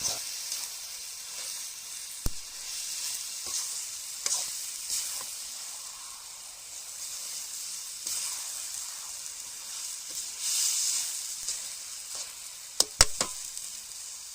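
Washed chicken pieces sizzling in hot oil with onions and ginger-garlic paste in a pan, being stirred, with occasional clicks of the stirring spoon against the pan. The sizzle swells briefly a little past halfway, and a few loud sharp clacks come near the end.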